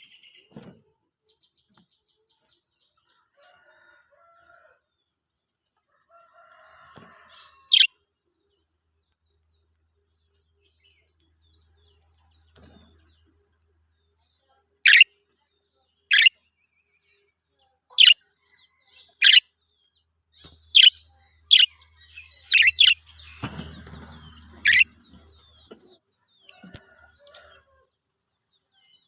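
Pet budgerigars giving short, sharp single chirps, about ten of them spaced irregularly through the second half, with soft quiet chatter earlier on. A brief rustle breaks in among the chirps near the end.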